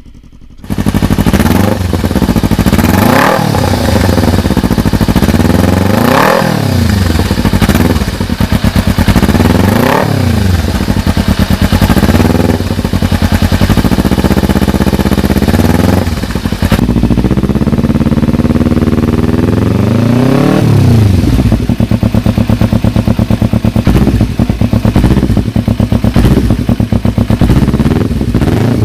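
Kawasaki Ninja 300's parallel-twin engine through an aftermarket exhaust, starting abruptly under a second in. It is blipped up and back down several times, held at high revs for a few seconds, then left to idle with a steady rhythmic pulse.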